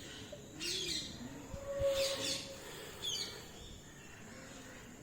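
Small birds chirping in quick downward-sweeping bursts, three times in the first few seconds, over a soft low cooing that repeats.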